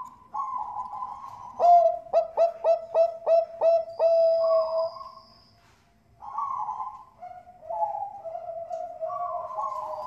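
Perkutut bangkok (zebra dove) cooing: a run of about eight quick, clipped coos that ends in a long held note, then after a short pause more cooing.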